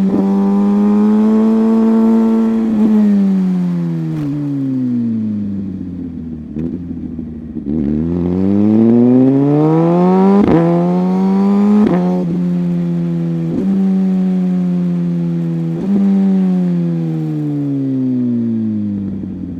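Sport motorcycle's engine under way, its revs holding high, falling off over several seconds, building again and falling once more in long, smooth swells. A few short clicks cut in along the way.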